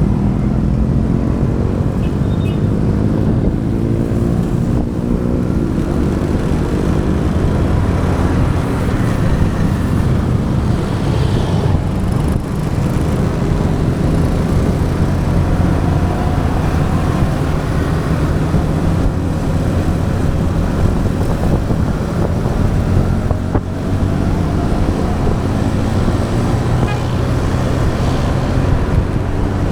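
Motorbike engine running during a ride, its pitch rising as it accelerates over the first few seconds and then holding fairly steady, with the noise of road traffic around it, picked up by an action camera on the bike.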